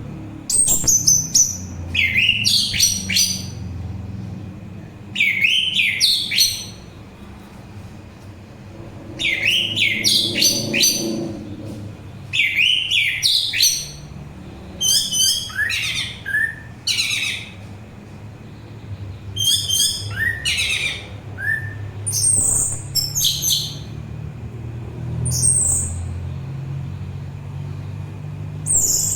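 Orange-headed thrush singing: short, rich phrases of quick, varied whistled notes and trills, repeated every few seconds with brief pauses between, over a low steady hum.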